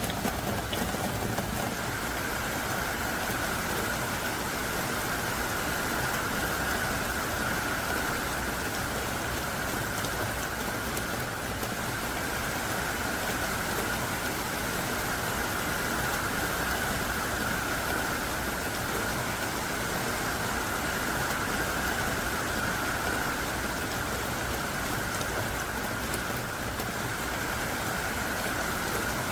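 Heavy downpour of thick, hard-falling rain: a steady, dense hiss of rain with no breaks.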